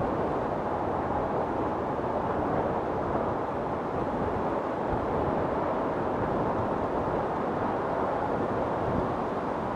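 Wind storm blowing steadily, a dense rushing noise that holds an even level without breaks or gusts.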